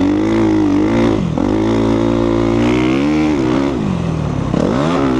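2014 Suzuki RMZ250's four-stroke single-cylinder engine on a dirt bike being ridden, revs rising and falling with the throttle. It dips briefly about a second in and again for longer near the end before climbing back up.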